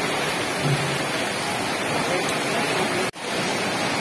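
Torrential rain pouring down onto a street, a steady dense hiss of downpour that cuts out for an instant about three seconds in.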